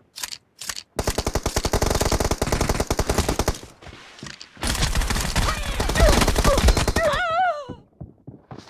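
Video-game automatic gunfire: a few single shots, then two long bursts of rapid machine-gun fire separated by a short pause, with a wavering tone mixed into the end of the second burst.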